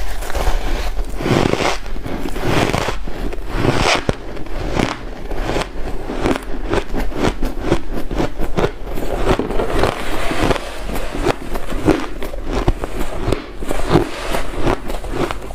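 White ice being crunched and chewed in the mouth: a dense, unbroken run of crackling crunches.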